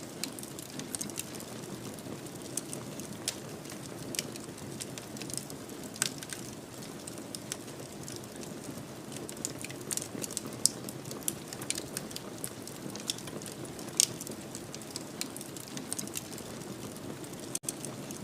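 Wood fire crackling in a fireplace: a steady low rush of flames with frequent sharp pops and snaps, a few of them louder. The sound cuts out for an instant near the end.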